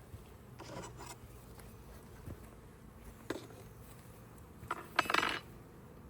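A metal hive tool prying and scraping at a beehive's cover, which the bees have glued down. There are a few short scrapes and cracks, with the loudest cluster about five seconds in.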